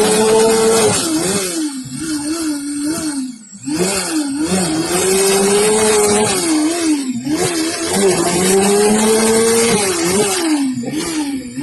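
Motorcycle engine revving hard: held at high revs for a second or so, then blipped rapidly up and down several times, over and over, with short drops in revs about 3.5 and 7 seconds in.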